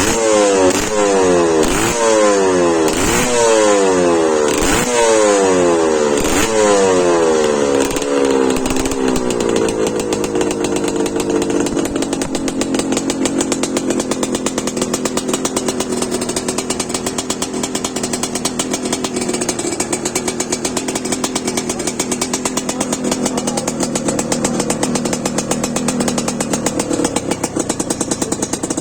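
Memnun TS250E motorcycle's two-stroke engine revved in a series of quick throttle blips, about one every second and a half. Around nine seconds in the blips stop and the engine settles to a steady idle.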